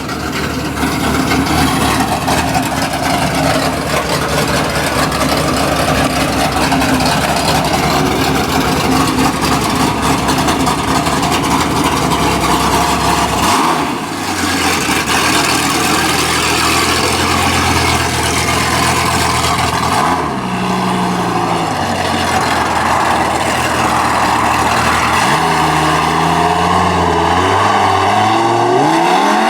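Cammed Dodge Ram SRT10's 8.3-litre V10, with headers and a full 3-inch exhaust, running steadily and then pulling away. The engine pitch climbs about halfway through, twice more after that, and steeply near the end.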